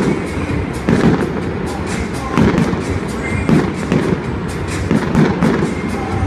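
Aerial fireworks going off in quick succession: heavy booms about once a second over continuous crackling.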